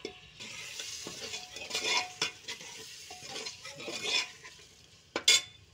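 Chopped tomatoes sizzling in hot oil and spice masala while a metal ladle stirs and scrapes them around the pot. There is a sharp knock near the end.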